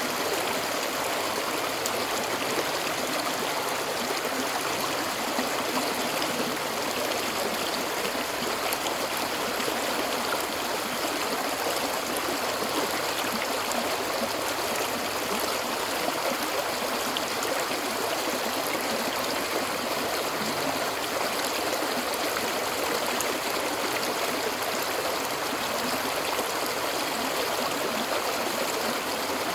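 Flowing water rushing steadily, an even hiss that never lets up.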